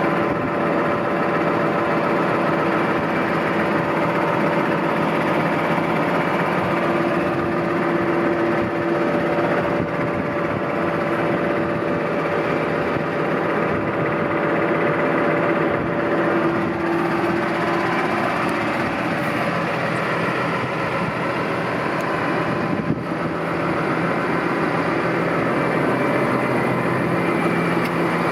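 New Holland T6.180 tractor's six-cylinder diesel engine running steadily.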